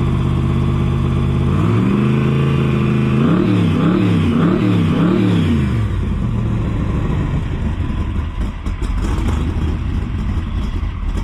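Carbureted Roush-built 427 small-block V8 in a Cobra replica idling, stepping up to a higher steady speed about two seconds in, then blipped several times in quick succession before dropping back to idle about six seconds in. The engine is freshly rebuilt and not yet fully tuned.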